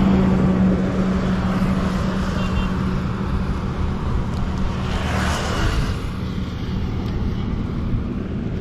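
Roadside traffic: a steady engine hum that fades after about four seconds, then a vehicle passing at about five seconds.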